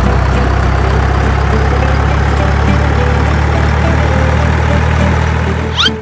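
Heavy truck engine running steadily with a deep, even drone, and a short rising squeal near the end.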